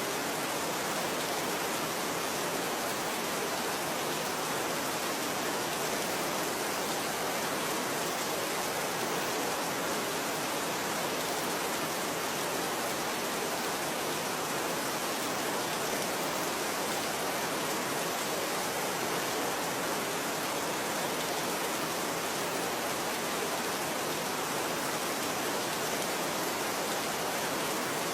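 Steady rain falling, an even, unbroken hiss that holds one level throughout.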